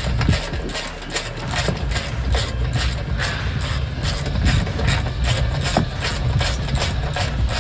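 Hand ratchet clicking in repeated strokes as a 17 mm suspension bolt is worked loose, over a steady low rumble.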